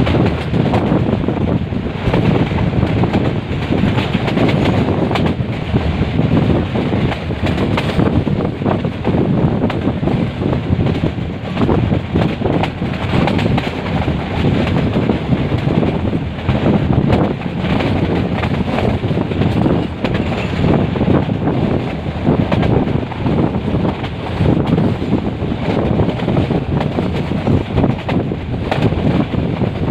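Metre-gauge passenger train running, a steady rumble with many small knocks, and wind buffeting the microphone.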